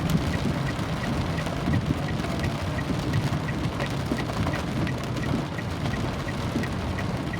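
Steady rain falling, a dense low rush of water with scattered drops hitting close by. A faint, even tick sounds about three times a second throughout.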